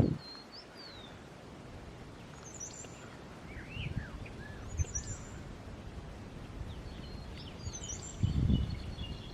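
Wild birds calling: a short, high twittering call repeating every two to three seconds, with lower chirps and whistles between, over a steady outdoor hiss. A few low thumps, the loudest just before the end.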